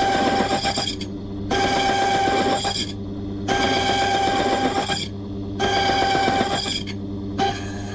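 Key-cutting machine cutting a steel safe-key blank in repeated passes, one roughly every two seconds. Each pass is a ringing, whining cut of about a second and a half, over the steady hum of the machine's motor.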